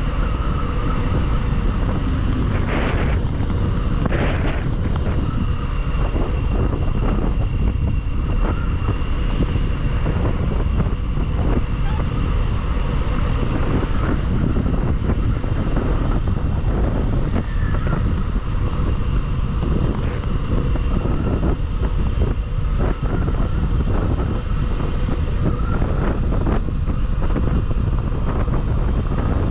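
Wind rushing over the microphone of a moving motorcycle, with engine and road noise underneath; steady throughout.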